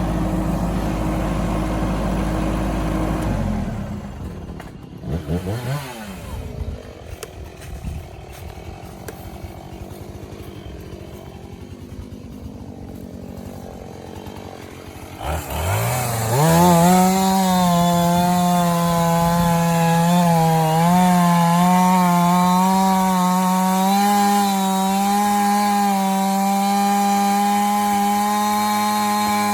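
A Kubota tractor's diesel engine runs and cuts off a few seconds in; after some quieter seconds with a few knocks, a chainsaw starts about fifteen seconds in, revs up and runs at high speed, its pitch wavering slightly as it saws through a hardwood log.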